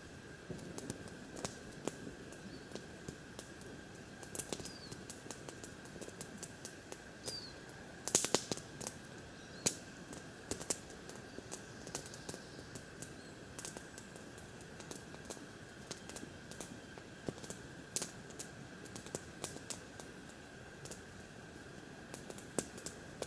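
Campfire wood crackling and popping: irregular sharp cracks throughout, with a burst of louder pops about eight seconds in, over a faint steady high tone.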